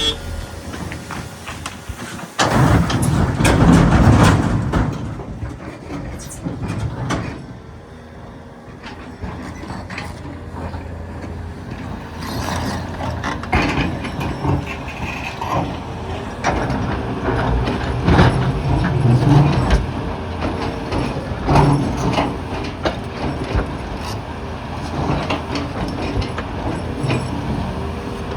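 Volvo EC380EL excavator's diesel engine and hydraulics working under load while it handles quarry rock, with repeated metallic clanks and knocks of bucket and stone. A loud rumbling crash of rock lasts about two seconds near the start.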